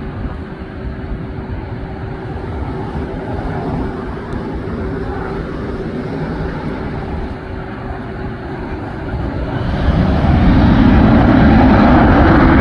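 Jet airliner engine noise at an airport: a steady rumble with a faint hum, which swells sharply about ten seconds in to a loud, dense roar as a jet comes closer.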